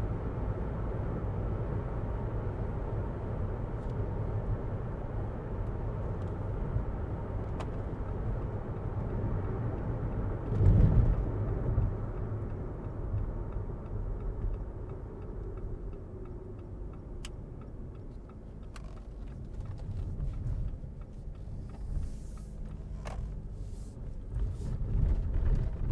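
Road and tyre noise inside the cabin of a 2022 Jeep Renegade Latitude while driving: a steady low rumble with a louder jolt about ten seconds in, easing to a quieter hum later on.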